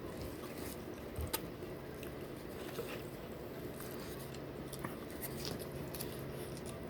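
A person eating: quiet chewing with a few small clicks from mouth and fries, over a steady low hum. One sharper click comes about a second in.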